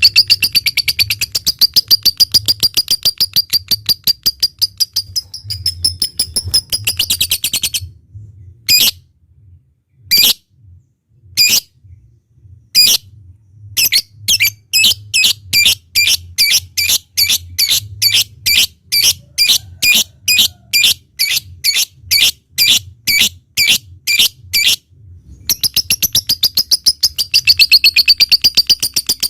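Lovebird calling: a long fast trill of rapid chirps (the 'ngekek'), then separate sharp chirps that settle into a steady run of about two to three a second, and near the end another long fast trill.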